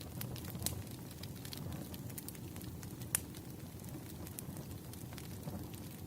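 Wood fire burning: a steady low rumble of flames under scattered crackles and pops from the burning logs, with one louder pop about three seconds in.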